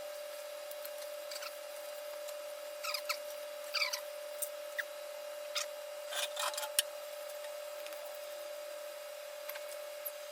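Light rubbing and scraping with scattered clicks and short squeaks, mostly from about three to seven seconds in, as tools or parts are handled, over a steady high electrical hum.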